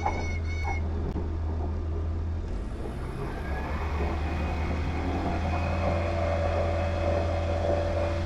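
Diamond DA20 light aircraft's engine and propeller heard from the cockpit during a touch-and-go: the engine is brought up to full power about three seconds in and its drone grows louder and higher for the takeoff roll. A high steady warning tone stops less than a second in.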